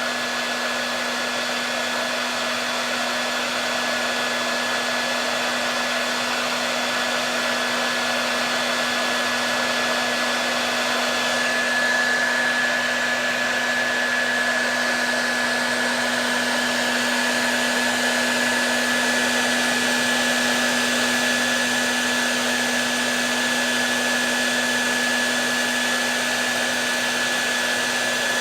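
Hair dryer running steadily: an even blowing hiss with a constant motor hum and a thin high whine. Continuous white-noise-like sound used to soothe a baby to sleep.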